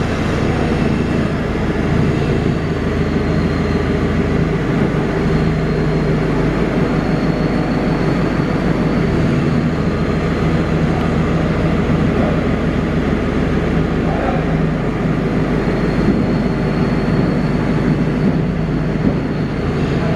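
A heavy vehicle running steadily: an even, loud drone with a low hum, and a faint high whine that comes in about three seconds in and again near the end.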